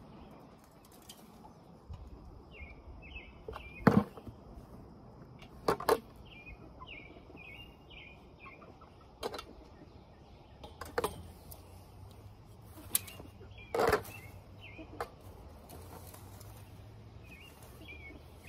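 Birds chirping in short runs of quick high notes, broken by several sharp knocks or taps. The loudest knocks come about 4 and 14 seconds in.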